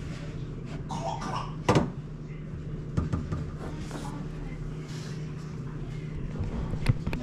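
A few sharp knocks and clunks of parts being handled, the loudest about two seconds in and two close together near the end, over a steady low hum.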